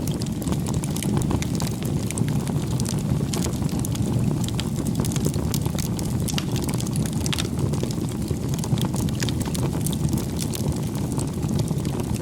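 Wood campfire burning: frequent sharp crackles and pops over a steady low rumble.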